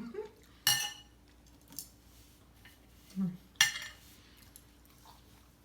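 Metal cutlery clinking against a dinner plate while eating: two sharp, ringing clinks about three seconds apart, with a few lighter taps between.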